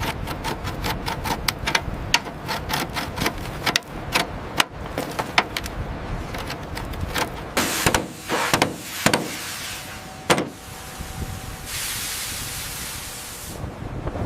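Rapid metallic clicking and rattling, dense for about the first ten seconds, typical of rigging chains and fittings being handled, then a steady hiss for about two seconds near the end.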